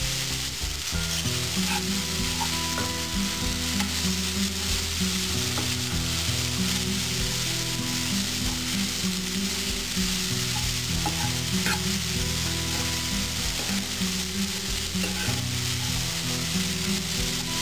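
Shredded cabbage sizzling in hot oil in a non-stick frying pan as it is stirred with a steel spoon, with a few light clicks of the spoon against the pan.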